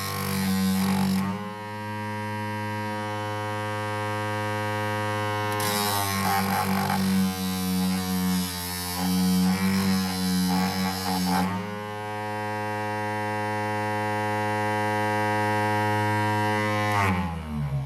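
RS775 DC motor sanding machine running with a steady whine, with rough grinding of the sanding pad against the work at the start and again for about six seconds in the middle. Near the end the motor is switched off and winds down, its whine falling in pitch.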